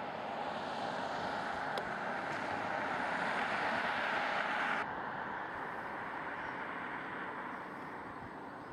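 Steady running noise of a rail vehicle moving along the track, heard from its front end, slowly growing louder. A little under five seconds in, the hissier upper part of the noise cuts off abruptly, leaving a duller rumble.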